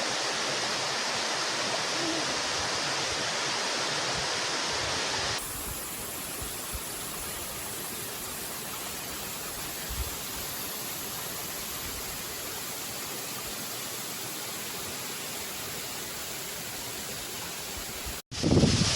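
Kirigataki waterfall's water rushing steadily. About five seconds in the rush turns abruptly quieter and duller, and near the end it cuts out for a moment.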